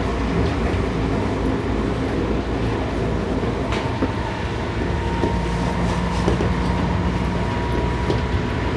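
Running sound of a Seibu 6000 series electric train, heard from inside its Toshiba IGBT-inverter motor car: a steady rumble of wheels on rail. About four seconds in, a steady whining tone comes in over the rumble, joined a second later by a lower one.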